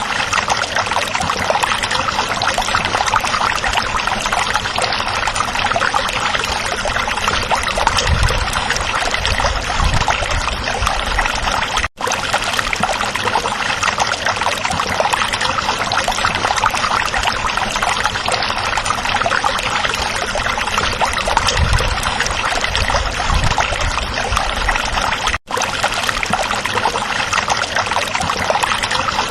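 A small stream running and babbling steadily over stones. The sound cuts out for an instant about twelve seconds in and again near the end.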